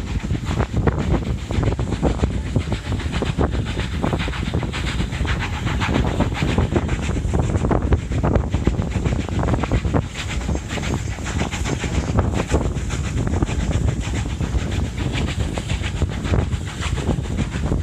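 Hunslet Austerity 0-6-0 saddle tank steam locomotive under way with a train, working hard: a steady, rhythmic chuff of exhaust with steam hiss and the clatter of the train on the rails.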